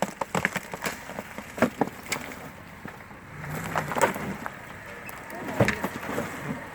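Ice and frozen crust cracking and crunching in a series of sharp, irregular snaps, with the loudest snaps about a second and a half, four and five and a half seconds in.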